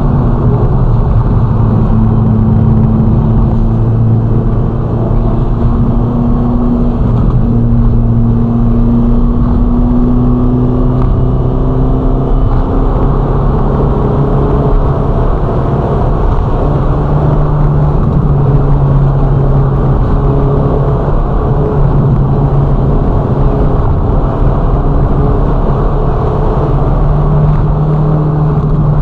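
Ferrari Roma's twin-turbo V8 running steadily at cruise, with road noise. Its note shifts a little in pitch, rising about halfway through and again near the end.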